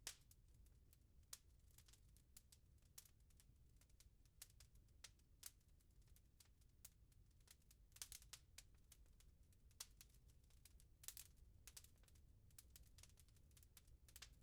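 Faint wood fire crackling in a fireplace, with irregular sharp pops and a few louder clusters of crackles about eight and eleven seconds in, over a soft low rumble.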